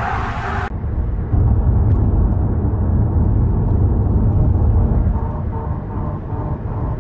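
Car driving, with a steady low road and engine rumble. A loud hiss cuts off suddenly just under a second in.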